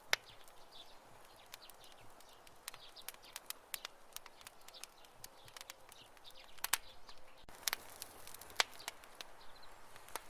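Wood campfire crackling: irregular sharp pops and snaps over a soft steady hiss of burning. There is a loud pop right at the start and a burst of louder pops near the end.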